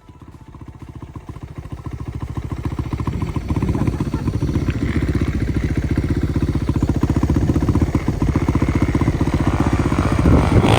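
A vehicle engine running with an even, rapid firing rhythm. It grows louder over the first few seconds, as if pulling up close, then holds steady.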